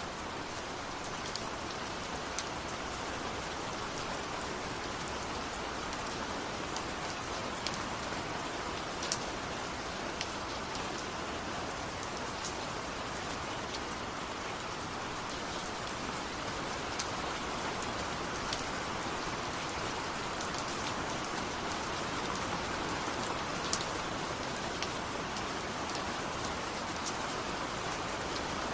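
Steady rain falling, a continuous hiss with many small drops ticking sharply on a hard surface.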